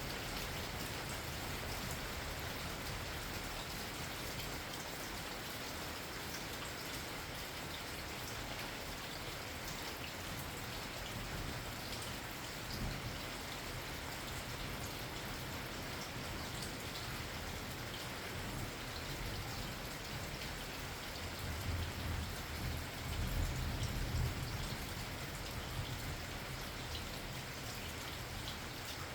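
Steady rain falling, with individual drops ticking through it. About three quarters of the way in, a low rumble swells for a few seconds and fades.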